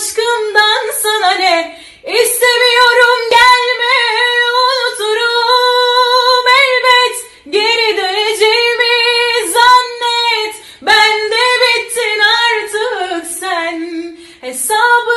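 A female voice singing a Turkish song unaccompanied, in long held, ornamented phrases with short breaks for breath about every three to four seconds.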